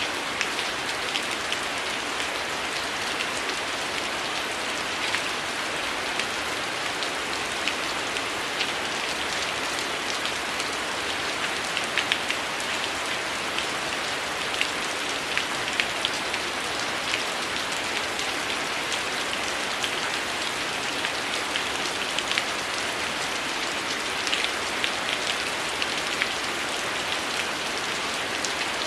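Steady heavy rain falling, with sharp crackles and pops from a wood fire scattered irregularly over it.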